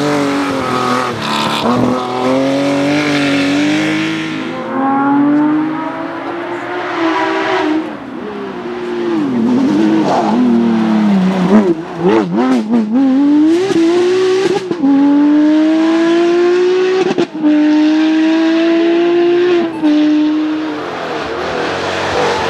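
Porsche 911-family flat-six rally car engine at full throttle, climbing in pitch and dropping back at each upshift, several times over. About ten seconds in the revs fall away and bounce up and down in quick throttle blips, with a few sharp cracks, before it pulls hard through the gears again.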